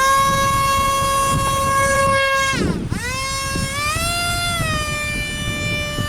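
Small high-revving electric ducted fan (30 mm, six blades) of an RC model aircraft giving a loud steady whine. The whine sinks and drops out about two and a half seconds in as it is throttled back, then spools up again and wavers in pitch with the throttle. Wind rumbles on the microphone underneath.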